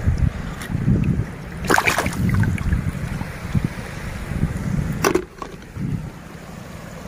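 Wind buffeting the microphone with a low, uneven rumble. A cluster of sharp clicks and knocks comes about two seconds in, and another sharp knock about five seconds in.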